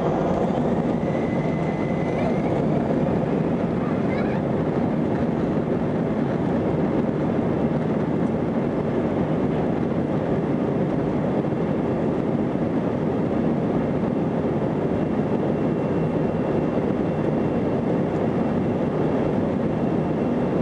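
Steady rumble of an Airbus A320's jet engines and airframe as heard inside the cabin, holding an even level without rising or falling.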